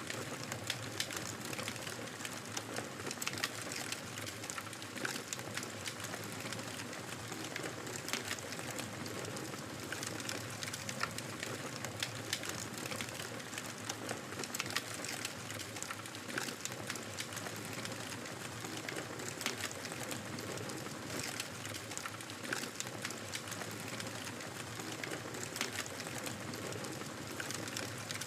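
Wood fire in a fireplace crackling: a steady hiss with many small, sharp pops and snaps at irregular intervals.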